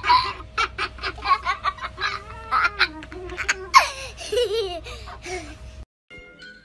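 A Moluccan (salmon-crested) cockatoo laughing like a person: wavering pitched calls broken into quick ha-ha bursts. About a second before the end the sound cuts off abruptly, followed by short electronic tones.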